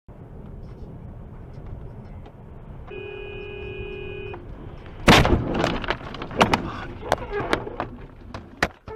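Road and engine noise, then a car horn held for about a second and a half, then a loud crash impact a little past five seconds in, followed by several seconds of banging and clattering as the collision plays out.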